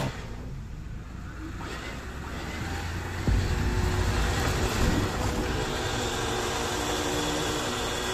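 An off-road 4x4's engine running steadily, with a knock about three seconds in, after which it runs louder.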